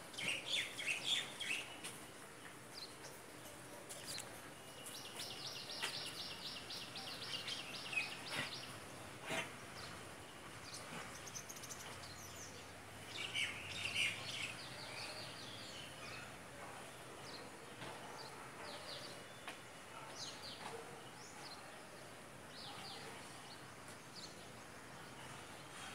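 Birds chirping and calling in short high notes, with a fast trill lasting about three seconds, over a steady background hiss.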